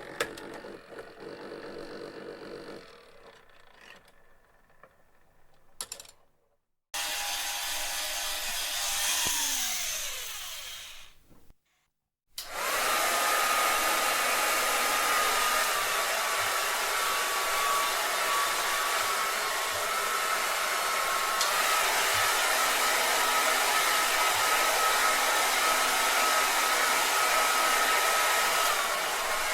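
A run of separate sound effects. A fading mechanical rattle ends, and after a brief silence comes a short sound whose pitch falls. After a second silence, a steady whirring noise of a small electric motor and fan begins about twelve seconds in, with a steady whine that steps slightly in pitch twice.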